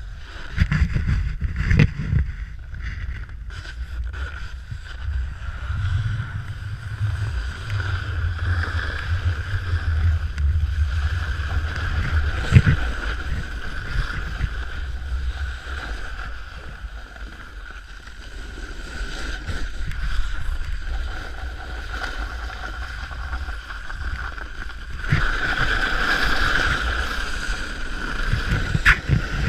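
Snowboard sliding and scraping over hard snow, a steady scraping hiss over a low wind rumble on the microphone, with a few short knocks, the scraping growing louder near the end.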